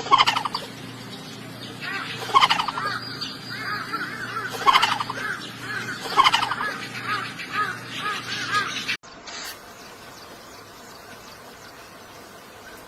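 Birds calling: loud calls about every two seconds, with quicker rising-and-falling notes between them. The calling cuts off abruptly about nine seconds in, leaving a faint hiss.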